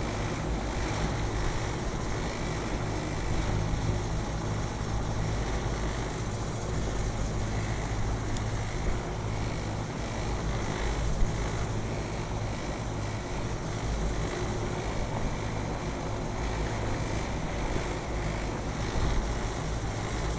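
Rooftop heat pump and air-conditioning equipment running, a steady low mechanical hum with fan noise over it, and one brief click about eleven seconds in.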